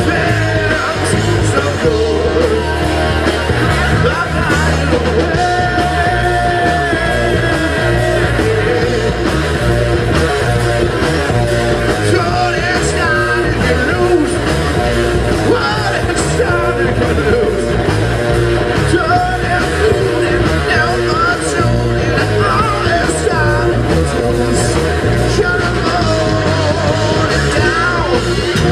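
Rock band playing live and loud, with electric guitar and shouted singing over a dense, unbroken full-band sound.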